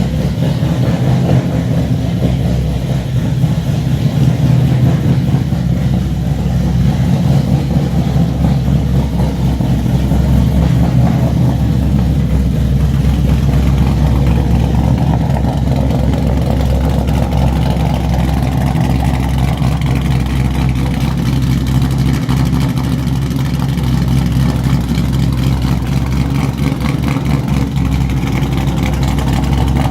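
2017 Ford Mustang GT's 5.0 L V8 idling steadily through a straight-piped exhaust: long-tube headers with the catalytic converters, mufflers and resonators removed.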